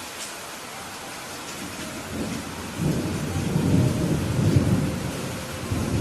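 Steady rain hiss with a low rolling rumble of thunder that builds about two seconds in, is loudest around the middle, and swells again near the end.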